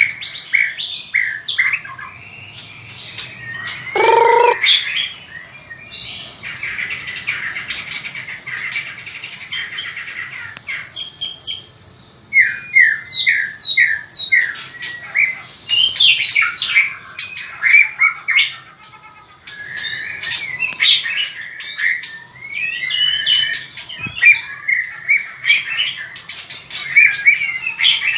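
White-rumped shama singing a long, varied song with barely a pause: whistled phrases, fast runs of high falling notes, and harsh chattering calls.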